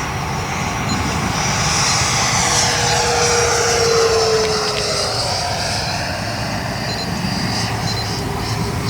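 Radio-controlled model airplane flying past. Its whine rises to its loudest about four seconds in, then drops in pitch as it goes by.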